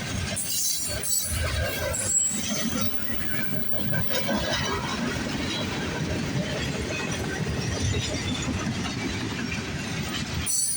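CSX freight train rolling past at close range: a steady rumble of freight cars and wheels on the rails, with some clatter from the wheels.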